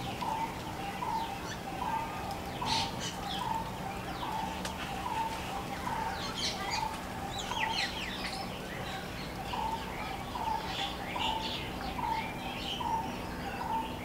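A bird calls a short note over and over, about one and a half times a second, while other birds chirp and twitter at a higher pitch, over a low steady hum.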